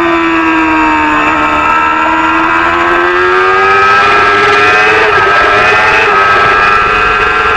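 Supersport 300 racing motorcycle engine running hard at high revs. Its pitch sags slowly, then climbs again, with a couple of brief dips.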